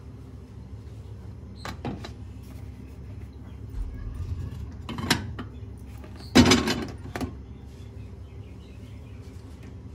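Household handling noises: a few light knocks and clicks, then a louder clatter lasting about a second a little past the middle, over a steady low hum.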